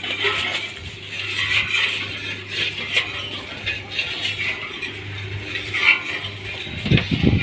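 Machinery running: a steady low hum under a continuous metallic rattling and clicking, with a few heavier low knocks near the end.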